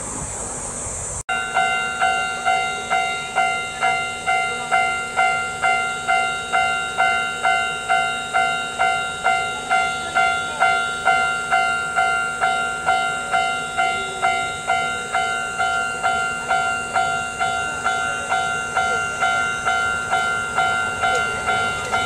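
Japanese railway level-crossing warning bell ringing steadily, about two strikes a second, starting abruptly about a second in.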